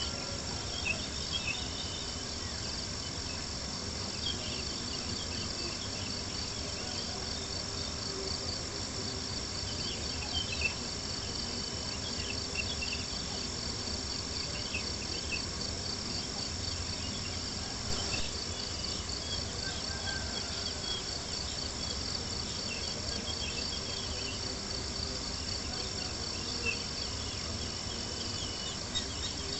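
Steady chorus of crickets, a fast pulsing trill, over a low hiss, with small crackles and a few sharper pops from a campfire.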